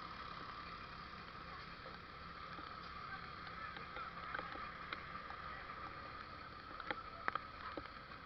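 Steady rushing hiss of water, with a few sharp cracks about seven seconds in.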